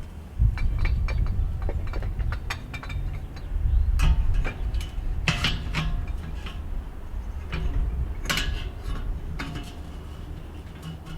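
Metal parts of a Weber kettle grill clinking and knocking as they are handled and fitted together, a scatter of irregular sharp clanks over a low rumble.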